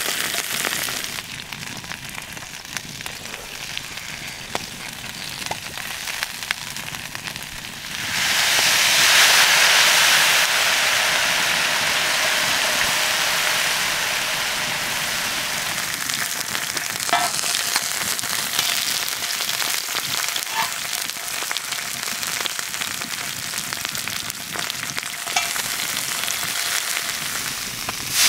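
Whole tiger prawns sizzling and frying on a hot hanging fire bowl over a campfire. The sizzle runs steadily, then suddenly surges louder about a third of the way through and slowly eases off, with a few faint ticks.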